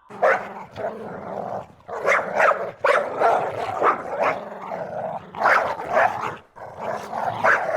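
Dog barking in quick runs of short barks, with brief pauses between the runs.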